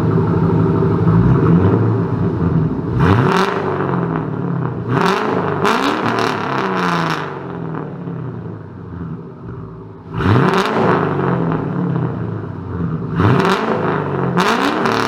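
Turbocharged Ford Mustang GT 4.6 L three-valve V8 revved through a single 5-inch exhaust. It is blipped sharply about five times, dropping back toward idle between blips, with a hiss during the revs.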